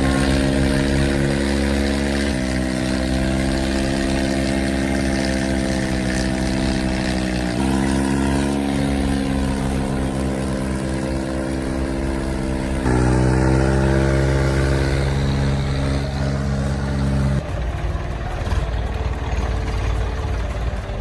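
Tractor's diesel engine running hard. Its pitch shifts up and down in steps as the revs change. About seventeen seconds in, the steady engine tone drops away and leaves rougher, noisier sound.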